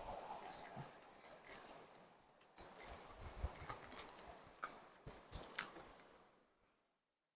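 Faint rustling and crunching handling noise with scattered sharp clicks, cutting off abruptly near the end.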